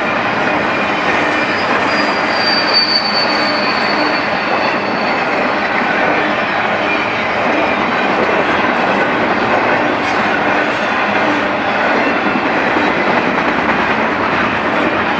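Freight cars of a BNSF intermodal train, loaded with truck trailers, rolling past at steady speed with a continuous loud noise of wheels on rail. A high, thin wheel squeal comes in about a second and a half in and slides slightly lower before fading a few seconds later.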